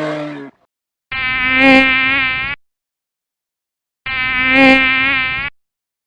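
A buzzing insect sound effect, played twice as two identical steady buzzes of about a second and a half each, with a pause between them.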